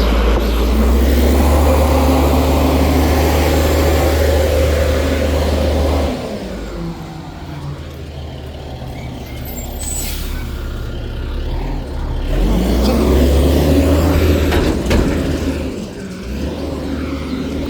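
Garbage truck engine revving hard under load to work the trash compactor. It runs high for about six seconds, drops back to a lower, rougher run, then revs up again about twelve seconds in before easing off.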